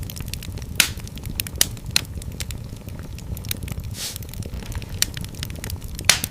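Fire crackling in a fireplace: a dense run of sharp pops and snaps over a steady low rumble of flame. The loudest pops come about a second in and just before the end.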